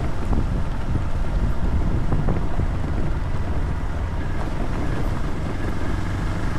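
Vehicle driving on an unpaved road: steady engine drone mixed with rumbling road noise and wind on the microphone.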